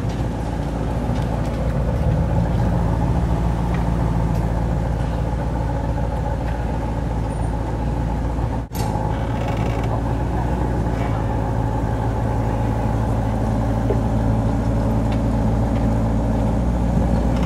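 Maserati GranCabrio's 4.7-litre V8 idling steadily, its pitch holding level throughout, with a brief cut in the sound about halfway through.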